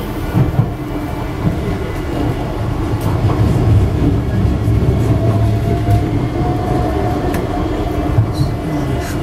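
Docklands Light Railway train running, heard from aboard: a steady low rumble of wheels on track, with a faint pitched whine and a few short knocks.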